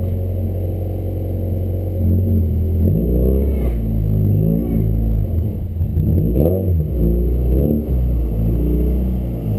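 Honda Accord's engine idling steadily, then revved repeatedly from about two seconds in, its pitch rising and falling with each blip of the throttle.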